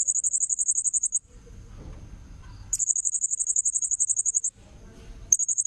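Blue-crowned hanging parrot (serindit) lure call: three very high, rapidly pulsing trills, about a second at the start, nearly two seconds in the middle and a short one near the end, over a faint steady high whine.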